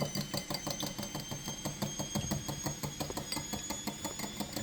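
Egg and milk being whisked in a bowl: a utensil beating against the bowl in quick, even clinks, about six a second.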